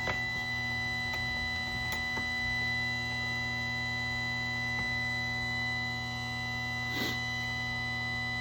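Electric chainsaw sharpener's motor and grinding wheel running free: a steady high whine over a low hum, with a brief noise about seven seconds in.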